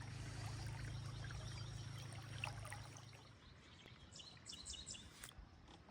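Faint rush of floodwater running through a small creek, with a low steady hum that stops about halfway through and a few faint high bird chirps near the end.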